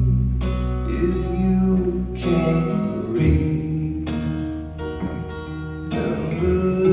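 Live folk-rock band music: strummed guitar chords changing about once a second over a low bass line, an instrumental passage with no sung words.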